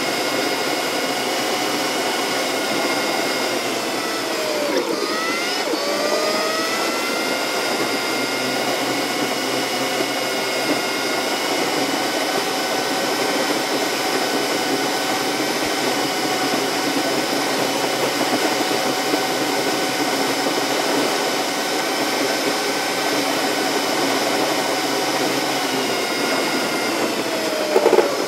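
Car engine and road noise from inside the cabin, played back sped up about tenfold so that it comes out as a steady high whine. The whole pitch dips sharply and climbs back about five seconds in, and again near the end.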